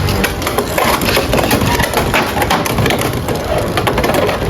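Beyblade X spinning tops clashing in a plastic stadium: a dense, rapid clatter of hard hits and scraping, with no let-up.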